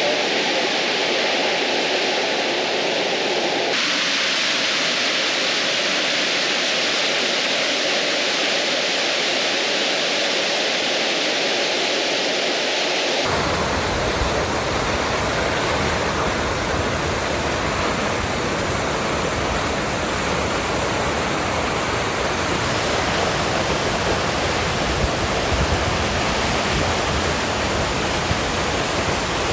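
A waterfall's steady, loud rush of falling water. Its tone shifts abruptly twice, about four seconds in and about thirteen seconds in, getting deeper and fuller the second time.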